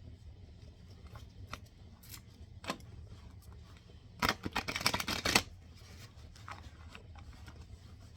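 An oracle card deck being handled and shuffled: a few scattered card taps, then a quick flurry of card slaps about four seconds in that lasts around a second.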